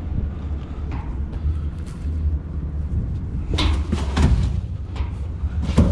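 Wind rumbling on the microphone, with a few sharp knocks a little past halfway and one louder one near the end.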